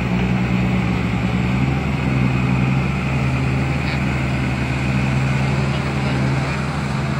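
Diesel engine of heavy earthmoving machinery running steadily at a constant speed.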